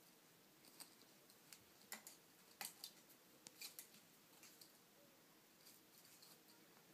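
Near silence with faint scattered clicks and scratches, most of them between about two and four seconds in.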